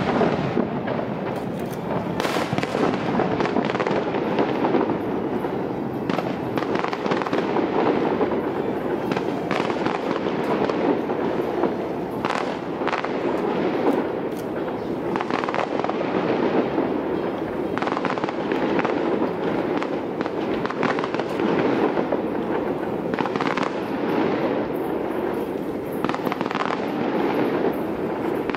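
Fireworks display going off without a break: many overlapping bangs and crackles, one after another.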